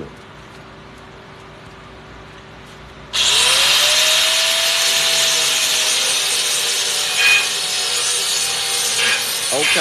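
A low room hum, then about three seconds in a power grinder starts suddenly on metal, its motor whine rising as it spins up, and grinds loudly and steadily.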